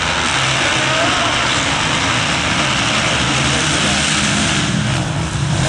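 Motocross motorcycle engines running during a race, a steady, dense engine noise with no single bike standing out.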